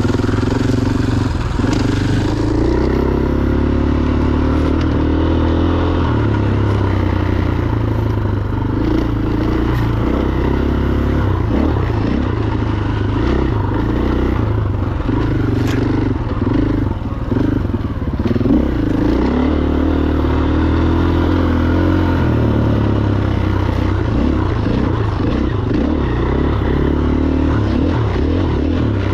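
A Husqvarna FE501 enduro motorcycle's single-cylinder four-stroke engine running continuously as the bike is ridden, its pitch rising and falling with the throttle.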